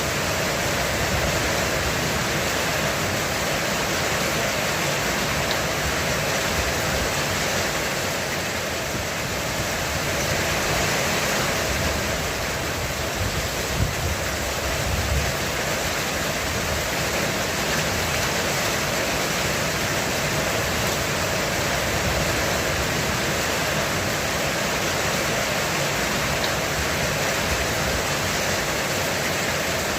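Heavy rain falling steadily on a roof, a dense even hiss, with a couple of brief low knocks about halfway through.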